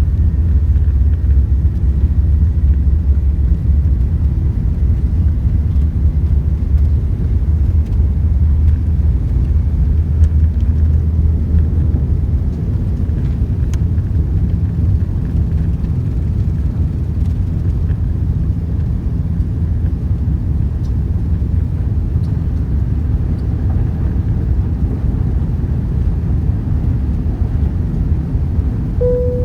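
Steady low rumble of an Airbus A380's engines and airflow as heard inside the passenger cabin, easing slightly partway through. A brief tone sounds right at the end.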